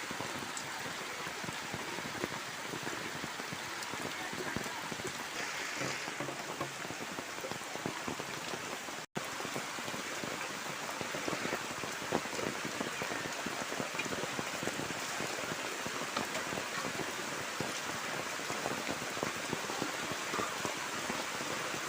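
Heavy rain falling steadily, a dense patter of drops. The sound breaks off for an instant about nine seconds in.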